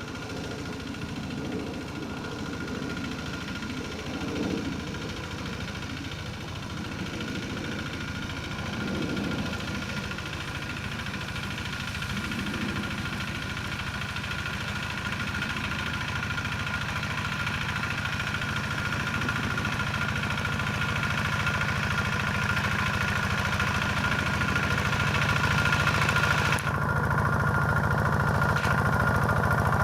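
Diesel engine of a Quick G1000 two-wheel hand tractor running steadily while plowing a rice field, growing gradually louder.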